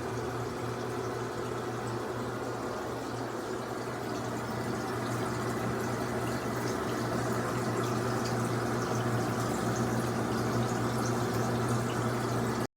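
Portable top-loading washing machine running its wash: a steady motor hum with water churning in the tub.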